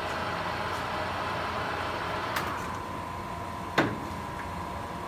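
1981 Summit 32-inch engine lathe running at its lowest spindle speed of 14 RPM, a steady mechanical hum. A light click comes a little over two seconds in, after which a steady high whine joins the hum, and a sharp clunk follows near four seconds in.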